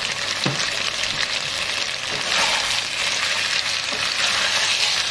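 Catfish pieces frying in red curry sauce in a pan: a steady sizzle, with a few faint ticks.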